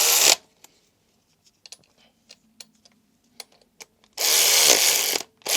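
Power drill-driver running in two short bursts, one right at the start and a longer one of about a second near the end, with light tool clicks between them. It is turning a pulley bolt that will not tighten up, the sign that the bolt or its thread is knackered.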